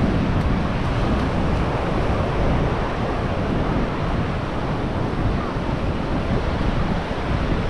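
Ocean surf washing on a beach with wind buffeting the microphone: a steady rushing noise, strongest in the low rumble.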